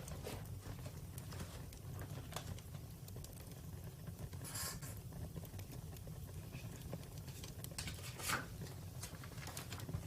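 Campfire crackling: a steady low rumble of flames with scattered pops and snaps, two louder snaps about four and a half and eight seconds in.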